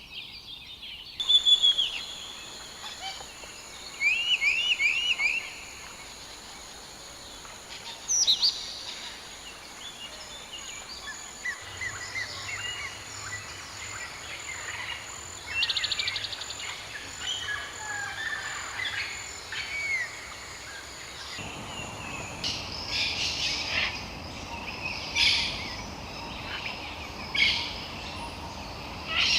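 Several birds chirping and calling: short repeated whistled notes, a few quick sweeping calls and, later, sharper calls, over a steady outdoor hiss. The background changes abruptly twice, as at cuts between clips.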